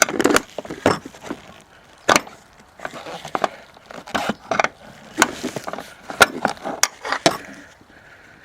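Irregular metallic clicks and knocks of a hand wrench working a nut loose on a car's front strut assembly, about one or two sharp knocks a second.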